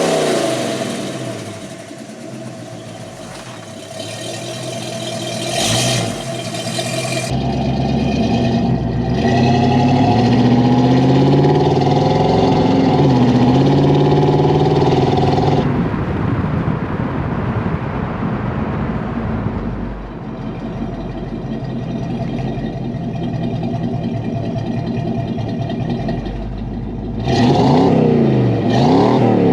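1964 Pontiac GTO's 389 V8 running through a 2.5-inch H-pipe and 3-inch Flowmaster Super 44 mufflers, its pitch rising and falling with the revs. There is a run of quick blips of the throttle near the end.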